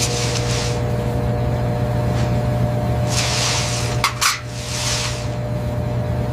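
A steady low mechanical hum with a few faint steady tones above it, broken by three hissing swells and two sharp clicks about four seconds in.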